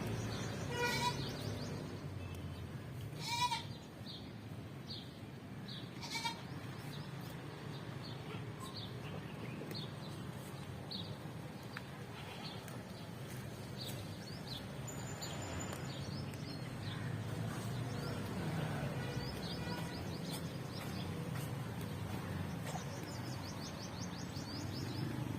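Goat kids bleating, three short calls in the first six seconds, over a steady low background noise with faint high chirps throughout.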